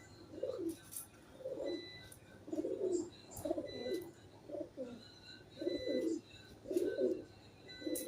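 Pigeons cooing: short, low, rolling coos repeated about once a second, with faint high chirps above them.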